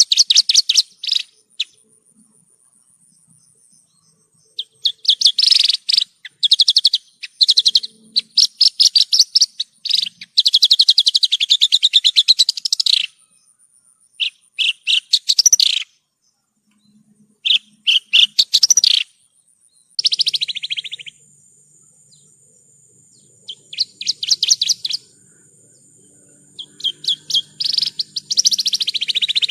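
Javan bushlark (branjangan) singing: repeated bursts of rapid trilling, chattering song, each half a second to three seconds long, separated by short pauses.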